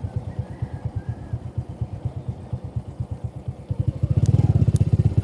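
Motorcycle engine idling with a rapid, even low beat, growing louder about four seconds in.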